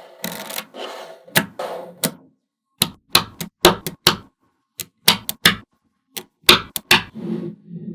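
Small magnetic balls clicking and snapping together, with stretches of rattling as they roll and slide against one another, and a run of separate sharp clicks in the middle.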